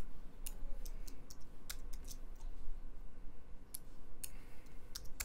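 Irregular clicks of a computer mouse and keyboard, about one or two a second, over a steady low hum.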